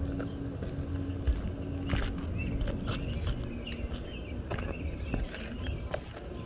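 Scattered scuffs and clicks of movement on an asphalt shingle roof over a low rumble, with birds chirping.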